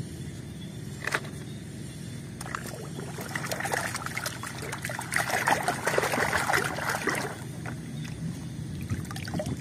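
Water sloshing and splashing in a plastic basin as a hand swishes and scrubs a muddy toy through it, loudest through the middle.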